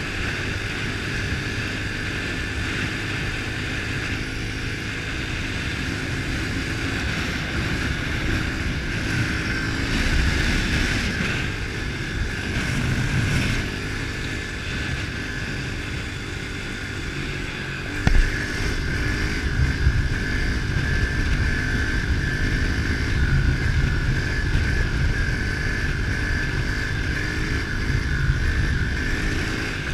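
A 110cc four-stroke pit bike engine running under way, its pitch shifting as speed changes, with wind noise on the microphone. A short sharp knock comes about eighteen seconds in.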